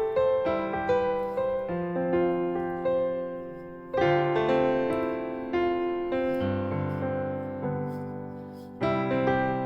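Background piano music: gentle notes and chords that ring and fade, in slow phrases.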